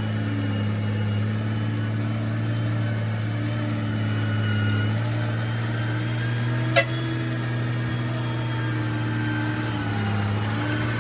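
Heavy earthmoving machine's engine running steadily at a constant speed, with a single sharp click about seven seconds in.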